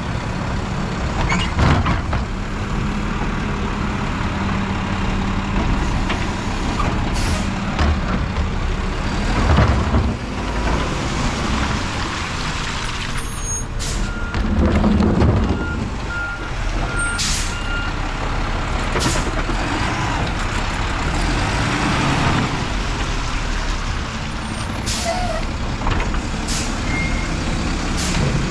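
Mack LR garbage truck running, with several short sharp air-brake hisses and a back-up alarm beeping about once a second for a few seconds around the middle.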